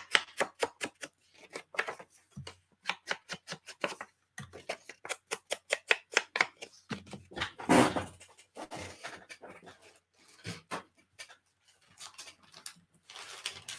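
Ink pad dabbed rapidly on paper to ink it up, a fast run of short taps several a second that pauses and resumes. One louder brushing swish of pad or paper comes about eight seconds in.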